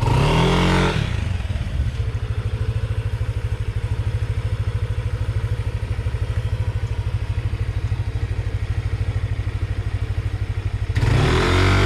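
Motorcycle engine running steadily close by with a fast, even low pulse, rising in a louder swell of revving in the first second and again near the end.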